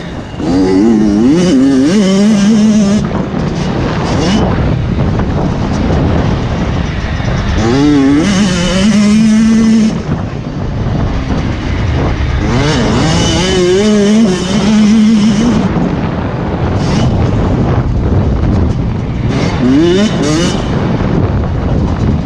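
Motocross bikes riding the track, their engines revving up and down in loud waves as they accelerate and pass, with the pitch climbing, warbling and holding several times.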